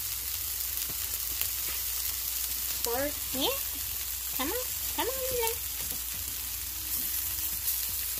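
Onions and bell peppers sizzling as they sauté in butter in a frying pan: a steady, high-pitched hiss.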